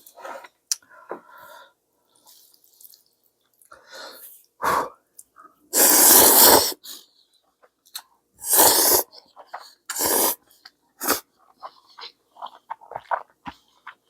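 A person eating ramen: several loud slurps of noodles, each up to about a second long, with chewing and small mouth and utensil clicks between them.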